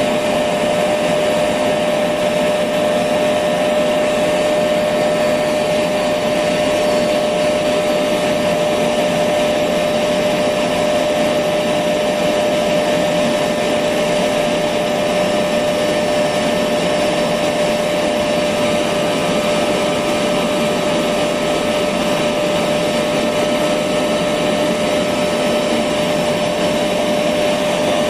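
Electric vacuum cleaner running continuously at a steady pitch: an even rushing noise with a steady whine from the motor.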